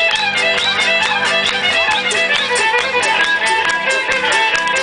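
Music led by a violin playing a fast melody of quick notes and slides over a steady rhythmic accompaniment.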